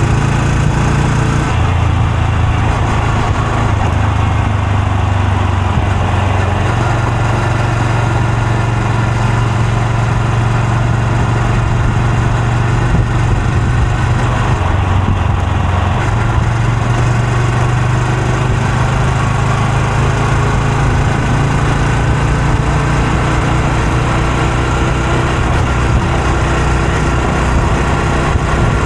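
Honda Super Cub C125's air-cooled single-cylinder four-stroke engine and exhaust running steadily while riding, its note shifting a few times as the speed changes.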